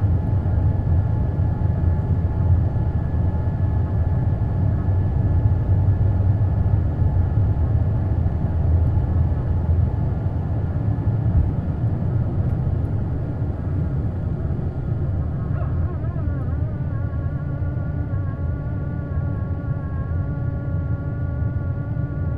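Airbus A220's Pratt & Whitney PW1500G geared turbofan engines running, heard as a loud steady rumble inside the cabin. About two-thirds of the way through, a cluster of wavering whining tones rises over the rumble.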